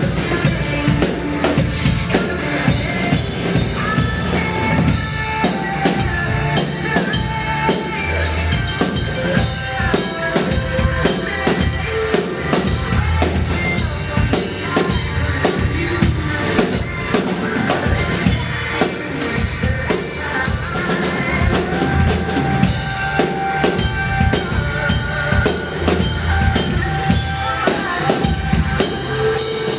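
Music with a full drum kit playing a steady beat: bass drum, snare and rimshots over pitched instruments.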